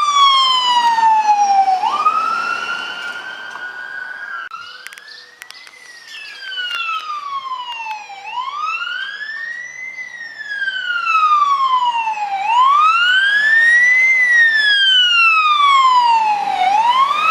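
Fire siren wailing, its pitch sliding slowly up and down about every four seconds. It dips quieter about five seconds in and is loudest near the end.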